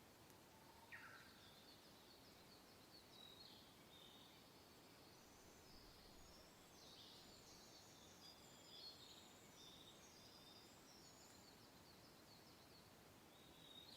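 Faint birdsong: many short chirps and trills from several birds, over a soft, steady hiss of wind.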